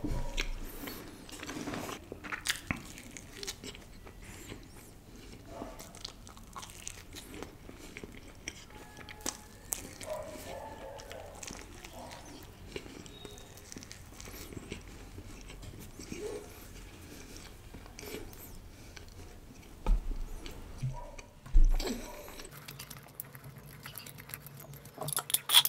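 Close-miked eating: biting and chewing pizza and a toasted chicken quesadilla, with small crunches and mouth noises. Two dull thumps late on are the loudest sounds.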